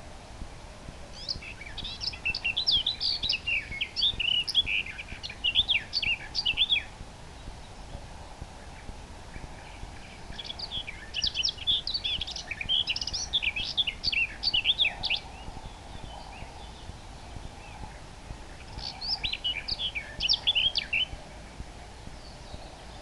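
Common nightingale singing in three bouts of rapid, varied high chirps and trills, each a few seconds long with pauses between, over steady outdoor background hiss.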